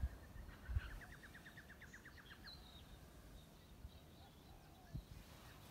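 Quiet outdoor ambience with a bird singing a rapid trill of about fifteen quick notes, from about one second in to about two and a half seconds in. There are a couple of soft low thumps.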